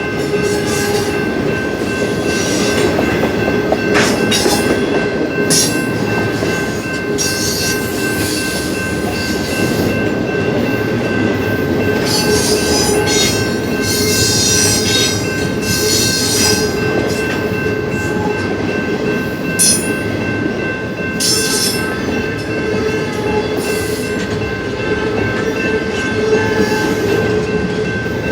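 Double-stack intermodal cars of a Union Pacific freight train rolling past, wheels rumbling steadily with several high squealing tones held throughout and short bursts of hiss now and then.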